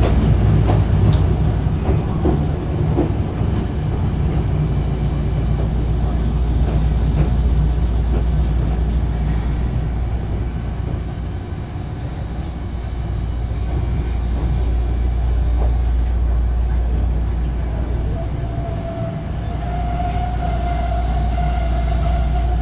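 Electric commuter train running, heard from inside the car: a steady rumble with a few clicks of the wheels over rail joints. Near the end a high, steady tone comes in as the train pulls into a station.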